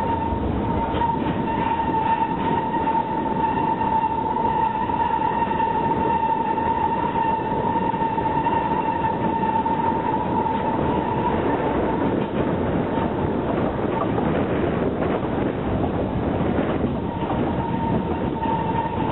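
Zoo railroad passenger train rolling along, with a steady high-pitched wheel squeal that fades out about halfway through and comes back near the end, as on a curve.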